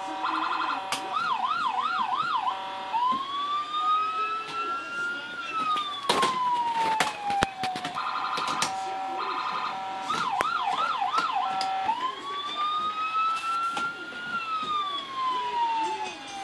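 Small electronic police siren made for a model police car, running its multi-tone cycle: a few stepped tones, a quick up-and-down yelp, then a long wail that rises slowly and falls back. The cycle plays twice, with a few clicks and knocks scattered through it.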